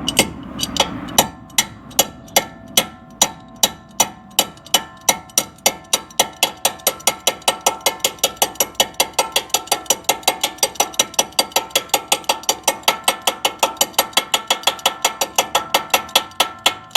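Steady run of light steel-on-steel hammer taps from a wrench used as a hammer, seating the tapered sleeve in the Jeep Gladiator's drilled steering knuckle, worked around the sleeve in a circle. The taps quicken from about two to about five a second, and the struck steel rings with a steady tone between them.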